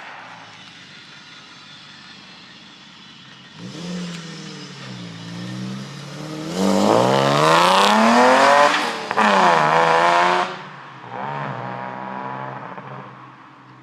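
Car engine revving hard as the car accelerates away, its pitch climbing steeply. The loudest pull lasts about four seconds in the middle with a brief break near its end, followed by a shorter, quieter rise.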